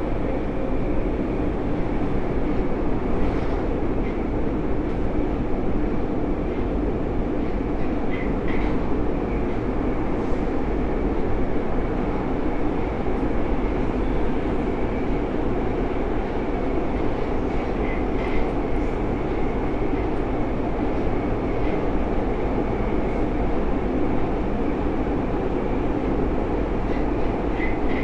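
Alstom AS-02 metro train running at steady speed, heard from inside the car: a continuous low rumble of wheels and motors, with short paired clicks every several seconds.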